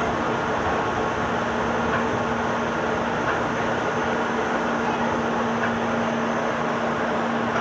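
Steady hum and rumble inside a Meitetsu 6000 series electric train car, with a constant low drone and a few faint clicks.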